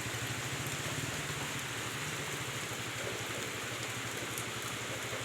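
Steady rain pouring down, an even hiss of drops hitting the ground with no break.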